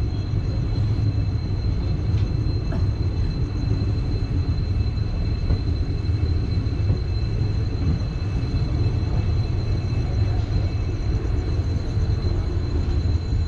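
Passenger train running on the rails, a steady low rumble with a thin constant high tone over it.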